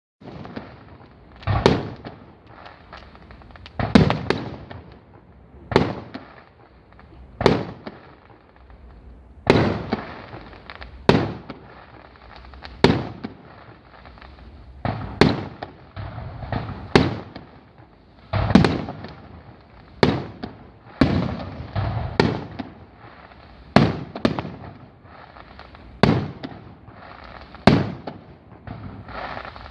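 Fireworks display: aerial shells bursting with sharp bangs, one every second or two, each trailing off in a rolling echo over a steady background of smaller crackling and rumble.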